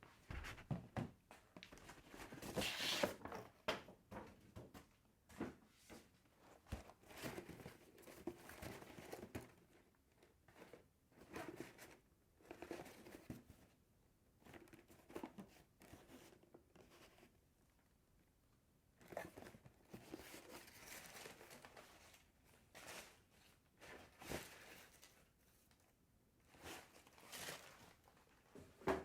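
Paper packaging being handled and opened by hand: faint crinkling, rustling and tearing in irregular bursts with short pauses, loudest a few seconds in.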